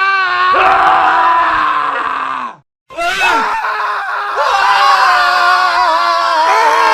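Men screaming, one scream clip cut after another: a scream that drops in pitch as it ends, a brief silent gap, then another long, wavering scream.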